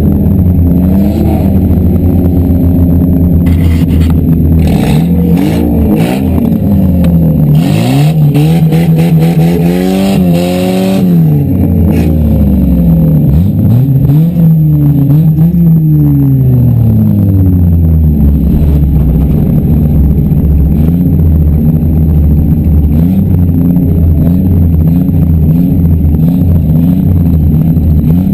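Demolition derby cars' engines revving up and down, several at once. A run of bangs and knocks comes in the first half.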